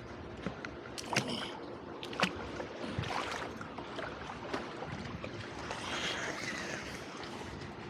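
Water sloshing and splashing right at a small waterproof action camera's microphone: a steady watery rush with a few sharp splashy clicks, the strongest about two seconds in.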